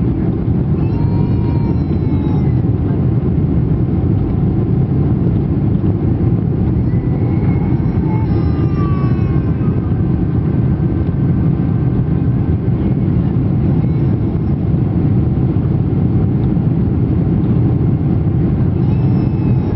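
Steady, loud roar of jet engines and rushing air inside the cabin of a British Airways Boeing 747-400 with Rolls-Royce RB211 engines, on take-off and climb-out.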